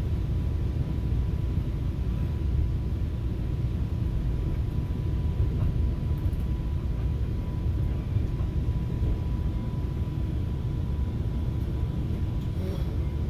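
FrontRunner commuter train in motion, heard from inside the passenger car: a steady low rumble of wheels and running gear, with a faint steady whine above it.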